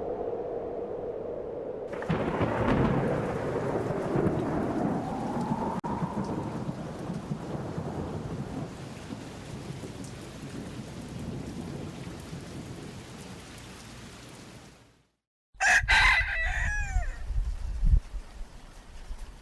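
A steady hum gives way about two seconds in to a long thunderstorm rumble with rain, with slow pitch glides drifting through it, fading over some ten seconds. After a brief cut to silence, a rooster crows over rain and a low rumble.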